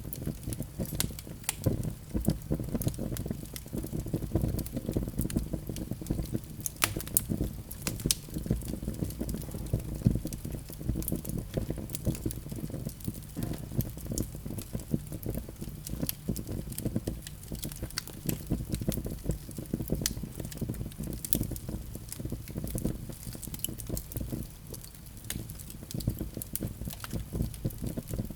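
Wood fire burning in a fireplace: a dense, irregular crackle of many small pops over a low rumble of the flames.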